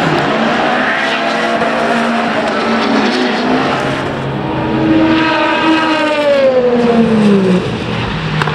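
Race cars running at speed on the circuit. In the second half one passes loudly, its engine note falling steeply in pitch as it goes by.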